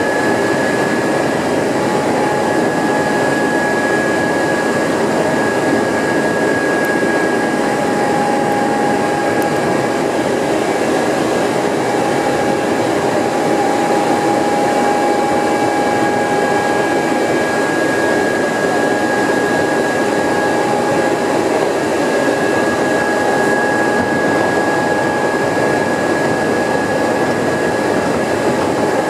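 Hankyu Kyoto Line electric train running at steady speed, heard from the cab: continuous rumble of wheels on rails with a steady high whine from the traction motors.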